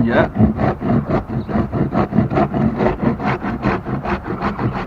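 A sharp metal paint scraper worked in rapid, repeated strokes across a garage door, scraping off old paint that chemical paint remover has softened and bubbled up.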